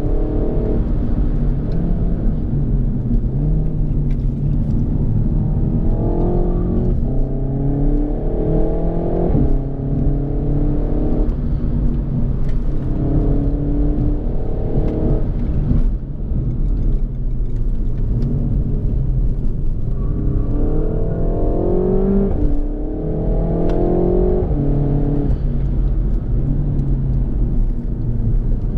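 Renault Mégane RS 280's turbocharged 1.8-litre four-cylinder engine heard from inside the cabin, accelerating hard with its pitch climbing in several runs, each ending in a sudden drop, over steady road noise.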